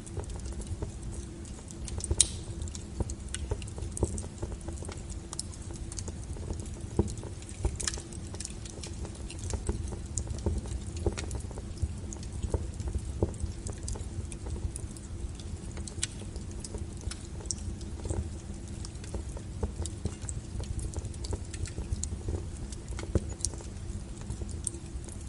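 Wood fire burning with a steady low rumble and irregular crackles and sharp pops, the loudest about two seconds in, near eight seconds and near the end.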